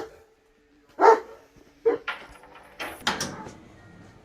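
A dog barking several times, in short loud barks roughly a second apart.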